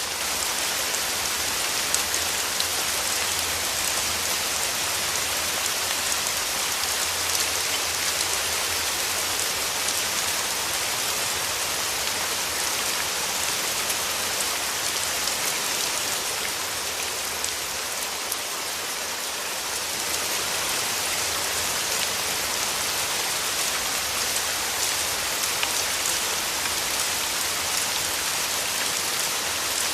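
Steady heavy rain falling, a dense hiss full of fine drop ticks, easing slightly for a moment about two-thirds of the way through.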